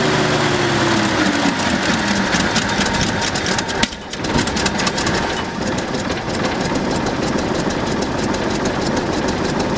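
Studebaker Flight Hawk engine running: the revs fall away over the first couple of seconds, then it idles steadily, with a brief dip about four seconds in.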